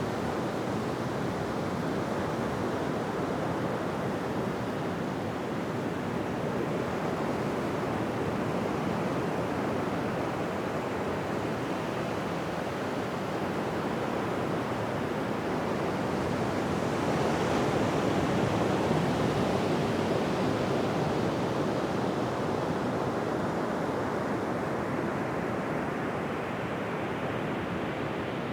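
Ocean surf washing on a beach: a continuous rushing wash of breaking waves, swelling a little past the middle and easing again near the end.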